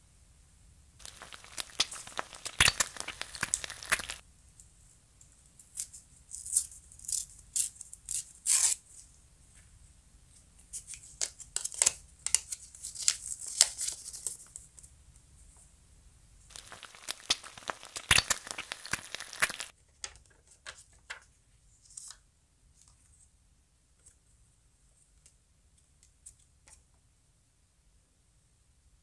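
Paper rustling and crinkling in four bursts as hands handle paper cutouts, a red paper wrapper being peeled off a paper sausage. Light paper taps follow near the end.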